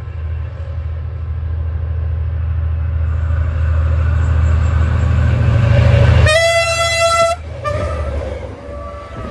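A diesel locomotive passing close by, its deep engine rumble building for about six seconds. Then one loud horn blast of about a second, followed by fainter, shorter horn notes.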